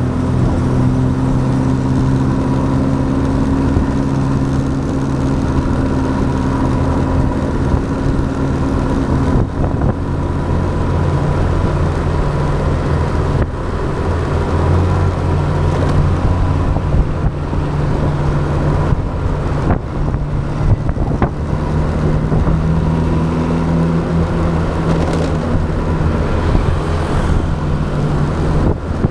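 Motorbike engine running at road speed with constant road and wind noise, its pitch shifting a couple of times as the speed changes.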